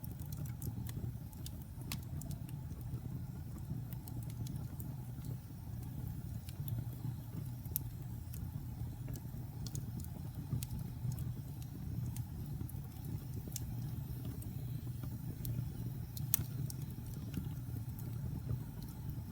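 Wood fire burning in a fireplace: a steady low rumble of flames with irregular sharp crackles and pops from the logs, one louder pop about three-quarters of the way through.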